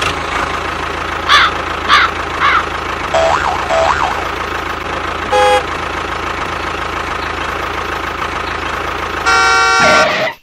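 A motor hums steadily, with several short warbling chirps in the first few seconds. A brief horn beep comes about five seconds in, and a longer, louder horn blast near the end cuts off sharply.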